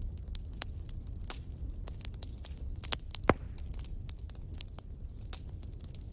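Fire crackling: a steady low rumble of flames with frequent sharp snaps and pops, and one much louder pop a little past halfway.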